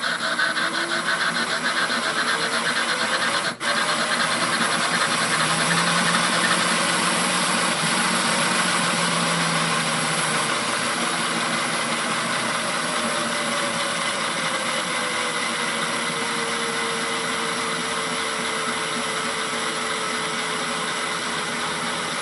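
DCC sound decoder reproducing a Stanier 8F steam locomotive on the move: a steady dense hiss and rumble of steam running. A faint tone rises in pitch over the first few seconds, the sound drops out for an instant about three and a half seconds in, and a tone slowly falls in pitch through the second half.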